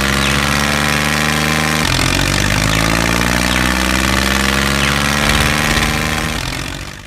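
A tractor engine sound effect, running steadily and then fading out near the end.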